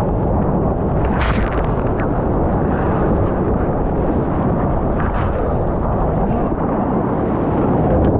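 Loud, steady rush of water and wind buffeting a GoPro action camera's microphone while surfing, with brief splashes about a second in and again around five seconds in.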